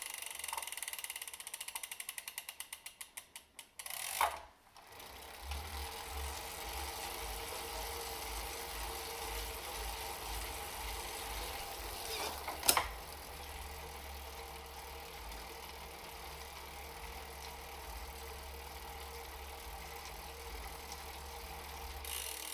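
Elite Suito-T direct-drive trainer with a bicycle freehub ratcheting as it freewheels: the pawl clicks slow down over the first few seconds. The trainer then runs with a low rhythmic pulsing, and one sharp knock comes about halfway through. The owner suspects the freehub as the cause of the knocking.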